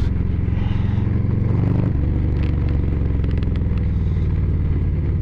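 Harley-Davidson Low Rider ST's Milwaukee-Eight 117 V-twin engine running steadily while riding, heard from the rider's helmet mic. The engine note shifts about two seconds in.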